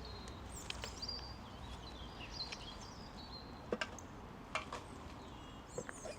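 Outdoor ambience: small birds chirping over a low steady background rumble, with a few short, sharp clicks.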